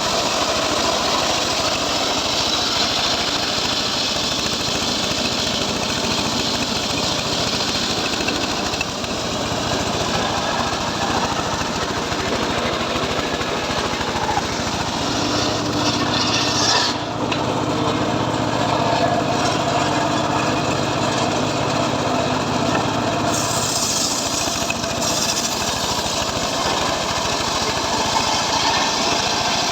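Homemade circular saw ripping teak wood, a steady loud run of motor and blade noise. A steadier low hum rises under it for several seconds past the middle.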